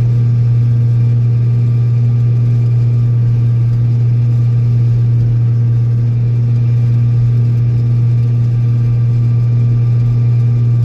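Old Steiger tractor's diesel engine running at a steady speed while pushing snow, a loud, constant low hum with no change in pitch.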